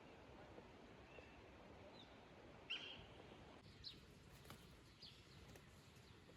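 Faint outdoor background hiss with a few short, high bird chirps scattered through it, the clearest about two and a half seconds in.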